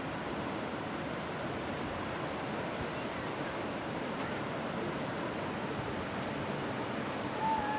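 Steady wash of ocean surf on a beach, mixed with wind noise on the microphone.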